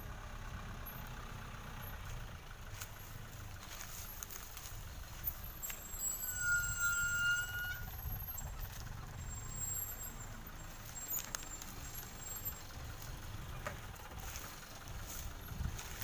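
Sugarcane-laden truck's diesel engine rumbling steadily. About six seconds in, a high steady squeal, typical of brakes, sounds for roughly a second and a half and is the loudest thing heard.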